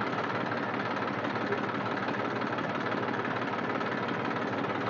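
Farm tractor engine running steadily as the tractor is driven slowly along.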